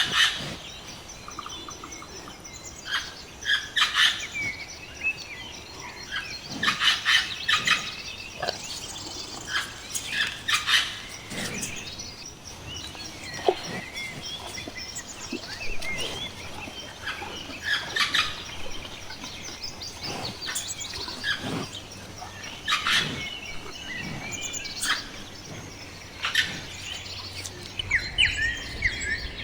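Indian ringneck parrot (rose-ringed parakeet) calling: many short, separate calls and clusters of calls every second or two.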